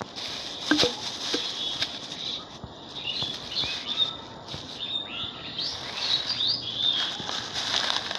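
Small birds chirping again and again in quick, short high notes, with a few sharp clicks and rustles; the loudest click comes about a second in.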